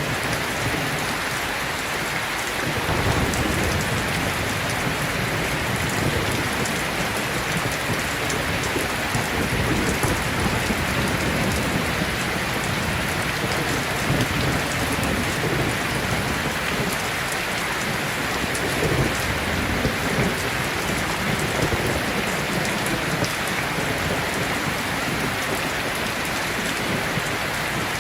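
Steady heavy rain falling, an even hiss of drops, with low rumbles of distant thunder swelling at times underneath.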